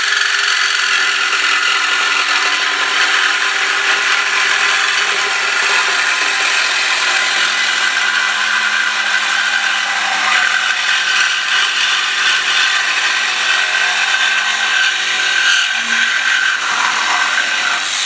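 Reciprocating saw (sawzall) cutting through a steel exhaust pipe, running continuously and stopping suddenly at the end.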